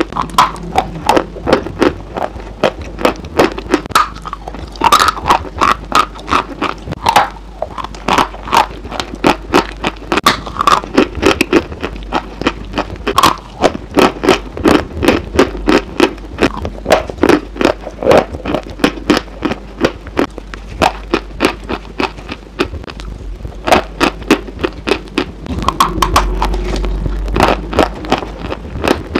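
Close-miked crunching and crackling as a white, papery item is bitten and chewed right at a lavalier microphone, a rapid, irregular stream of sharp crackles.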